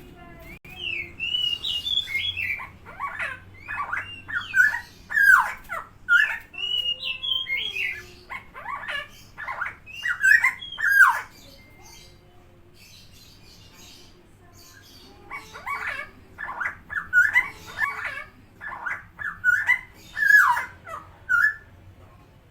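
Helmeted friarbird calling in quick runs of sharply bending, gurgling notes, in two spells separated by a pause of about four seconds in the middle.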